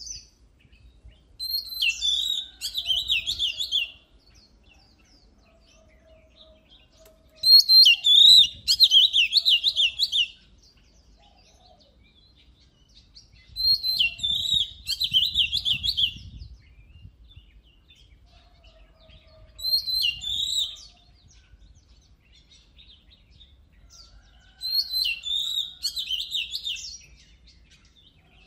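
Oriental magpie-robin singing in loud bouts of rapid, high, varied notes: five bouts of two to three seconds each, about six seconds apart, with faint low whistles in the pauses between them.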